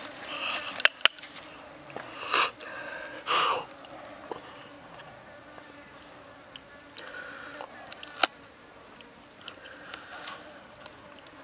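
Pork and green onions sizzling in oil in a square frying pan. A knife and chopsticks click against the pan as the meat is cut. Louder hissing bursts come about two and three seconds in.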